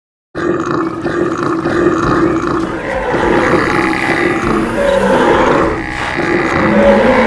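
Layered animal roars and growls from a stampede sound effect, starting abruptly after a brief silence and continuing densely.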